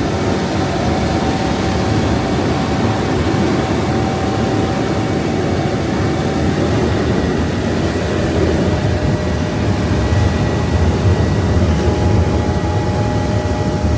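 Thames Clippers Uber Boat riverbus underway, heard on board: a steady, loud engine rumble and rush of water with a thin engine whine. The whine drops a little in pitch about seven seconds in.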